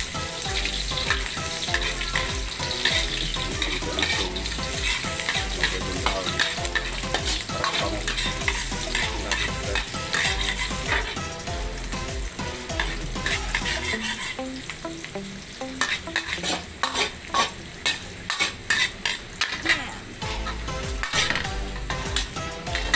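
Chopped garlic, onion and ginger sizzling in hot oil in a metal wok, stirred and scraped with a metal ladle. In the second half, a run of sharp clicks and knocks as the ladle strikes the wok.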